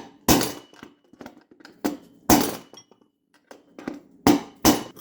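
Hammer blows on a riveted metal table leg, about five sharp strikes at uneven intervals, flattening and bending it back into shape.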